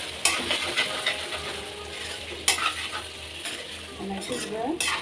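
Vegetables sizzling as they fry in a pan and are stirred with a spatula, which clinks against the pan a few times.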